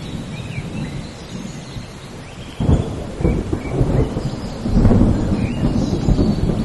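Steady rain with rolling thunder: a deep rumble breaks in sharply about two and a half seconds in and swells again near five seconds.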